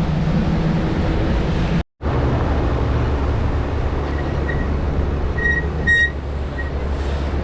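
Steady low wind rumble buffeting the microphone while riding a fat-tire e-bike along the beach, broken off for an instant about two seconds in. A few short faint high chirps come in the second half.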